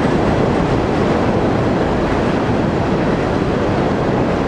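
Freight train rolling across a steel truss railroad bridge: a loud, steady rumble of the cars and wheels.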